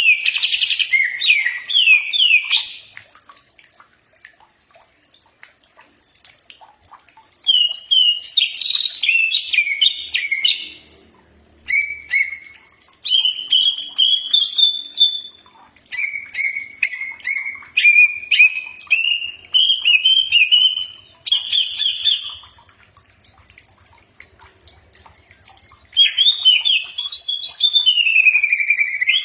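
A cucak ijo (green leafbird) sings in bouts of a few seconds separated by short pauses. The song mixes rapid strings of chattering notes with clear whistled phrases that slide up and down.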